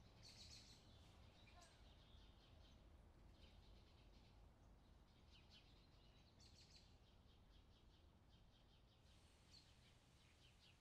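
Near silence, with faint bird chirps now and then.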